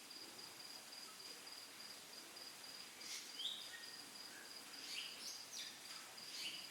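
Faint background of a steady, rapidly pulsing high insect trill, with a few short bird chirps about three and five seconds in.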